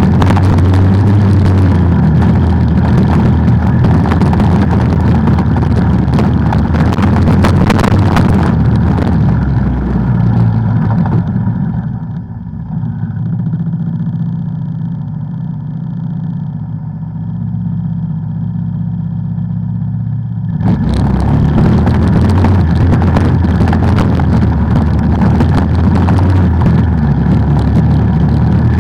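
ATV engine running under way, loud and steady. Roughly eleven seconds in it turns quieter and muffled, then the full sound cuts back in suddenly about twenty seconds in.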